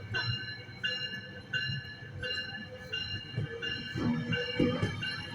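Passenger train departing, its bell ringing steadily at about two strikes a second over the low rumble of the train, with a few low thuds from the rolling cars near the end.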